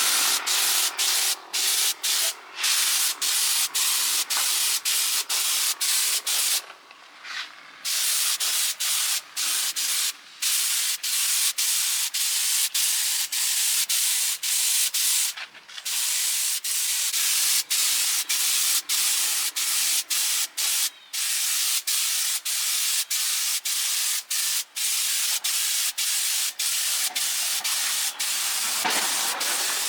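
Steady hissing, abrasive workshop noise, broken by many very short gaps and by two longer pauses.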